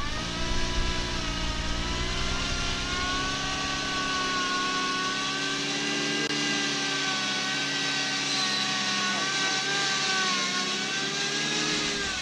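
Car engine held at raised revs, its pitch climbing at the start, staying nearly steady and then dropping away sharply at the end.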